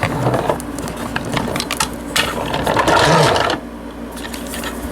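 Hard plastic parts of a Power Rangers S.P.D. S.W.A.T. Command Truck toy clicking and rattling as the truck is folded shut, with a louder rattling stretch about three seconds in.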